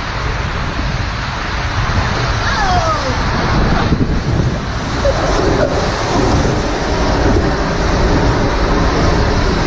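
Wind buffeting the microphone over rushing, splashing water, with a short falling voice-like cry about two and a half seconds in.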